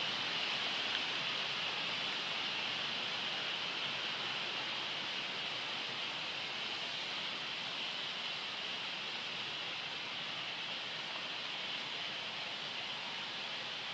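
Steady hiss of rain and storm wind in the trees, easing slightly over the stretch.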